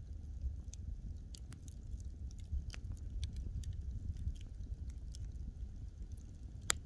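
Wood fire burning: a low steady rumble of flame with scattered sharp crackles and pops from the burning logs, one louder pop near the end.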